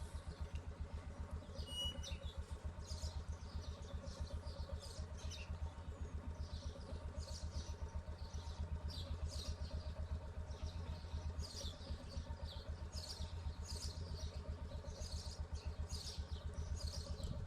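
A small engine running steadily with an even, rapid low thumping, while small birds chirp repeatedly throughout.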